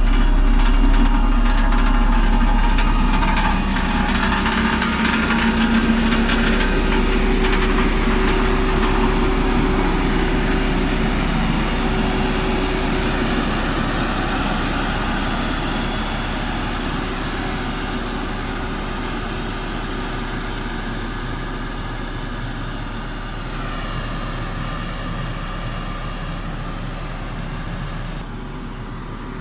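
JCB backhoe loader's diesel engine running steadily, gradually getting quieter.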